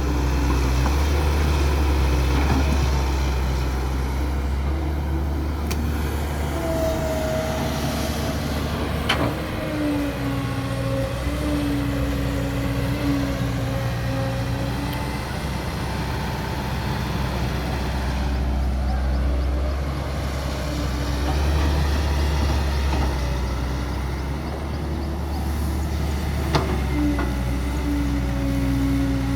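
Caterpillar E120B excavator's diesel engine running under load, with a whine that shifts in pitch as the hydraulics work. Two sharp clanks come through, about a third of the way in and near the end.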